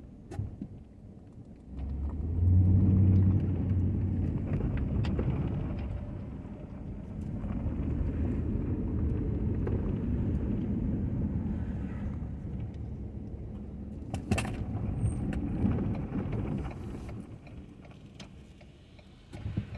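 Ford F-250 pickup truck running, its low engine rumble swelling and easing as it drives, with a single sharp clunk about fourteen seconds in.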